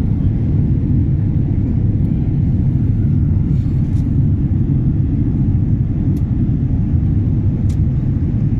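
Steady low rumble of engine and airflow noise inside an airliner cabin in flight, with a few faint clicks.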